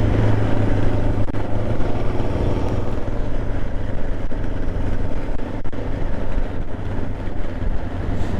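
Motorcycle engine running steadily while riding, with heavy wind noise on the microphone.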